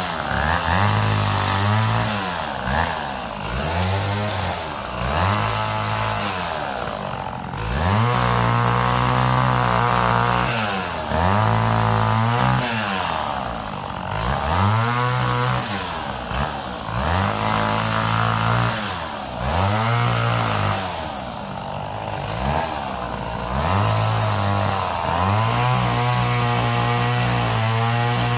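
Two-stroke chainsaw revved up and down over and over, about every one to two seconds, with stretches held at full throttle, as when cutting wood.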